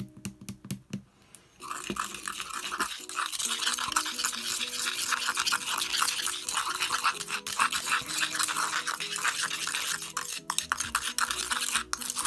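A metal spoon stirring and scraping thick watercolour paint of pigment, gum arabic and honey around a stone mortar. A few light taps come first as the pigment is shaken in. From about two seconds in there is a fast, continuous scraping.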